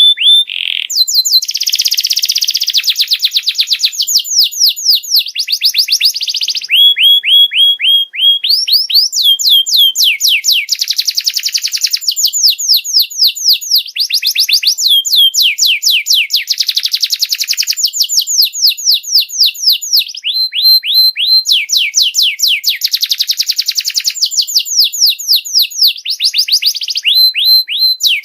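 Domestic canary singing a continuous song of rolling phrases. Each phrase is a fast run of repeated down-sweeping notes, several a second, broken now and then by short held whistles; this is a tutor song for teaching young canaries.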